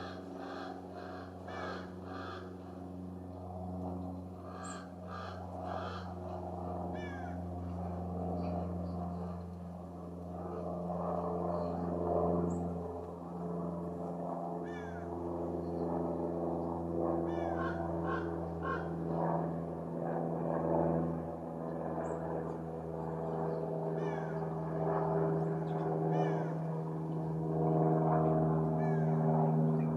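Wild birds calling and chipping at a feeder in short repeated notes, over the steady drone of a propeller aircraft that grows louder toward the end.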